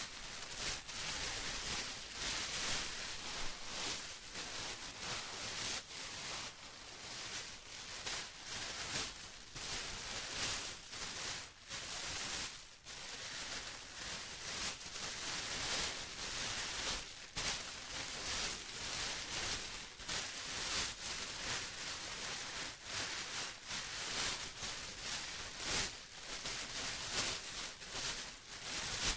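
Plastic being crumpled and rustled continuously, a dense crinkling crackle that swells and eases from moment to moment.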